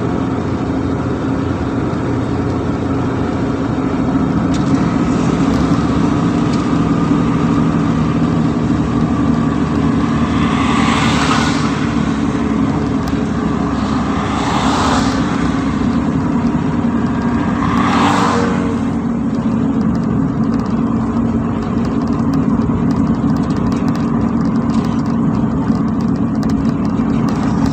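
An ambulance running on the road, its engine a steady low drone. Three brief whooshes come about 11, 15 and 18 seconds in, like vehicles passing.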